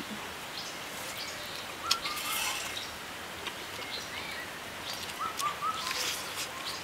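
Small birds chirping in short rising notes, a few at a time, about two seconds in and again after five seconds. A sharp click about two seconds in, and soft crunching as a crisp pan-fried chive pocket is bitten into near the end.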